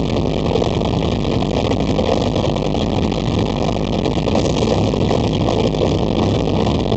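Loud, continuous roar of a live rock concert, overloading the recording, with no clear tune or voice standing out.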